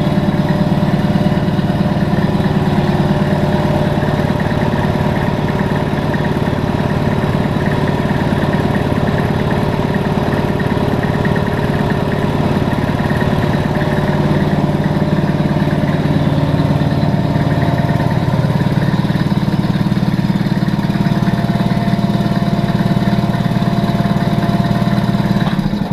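Binks 33-526 piston air compressor, a Quincy-built pump driven by a 2 hp Marathon electric motor, running steadily while it pumps up its tank; a quiet running unit.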